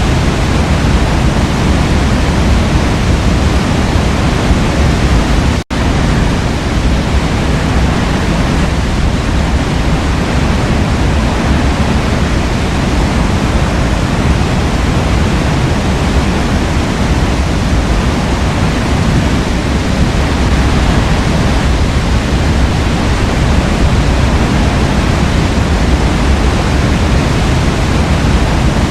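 Waterfall in a forest, water falling in a steady, even rush that is strongest in the low end. The sound cuts out for a split second about six seconds in.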